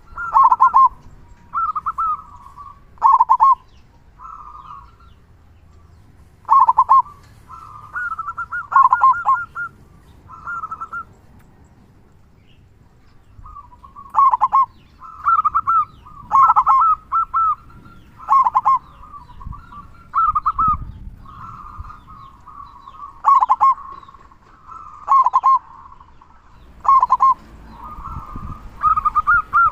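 Zebra dove (perkutut) cooing in repeated short phrases of rapid, staccato coos, with pauses between phrases.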